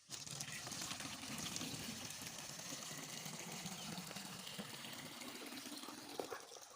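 Water running steadily into a plastic-bottle drinker. It starts abruptly and eases off near the end.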